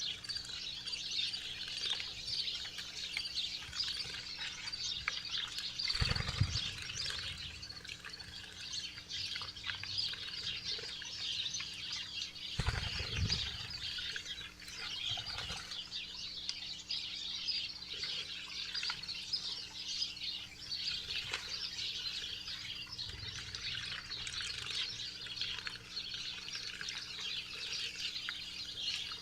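A flock of small songbirds chirping continuously at a backyard feeder, with two brief low flutters, likely wingbeats, about six and thirteen seconds in.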